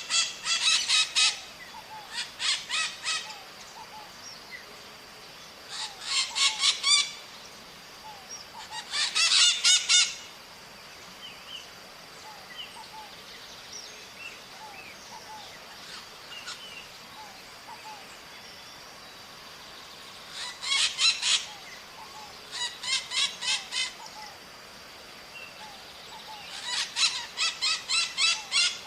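Maritacas (small Brazilian parrots) calling in bursts of rapid, harsh, screeching notes, each burst about a second long, with about seven bursts separated by pauses, the longest pause in the middle. A faint steady high tone runs underneath, with a few soft chirps between the bursts.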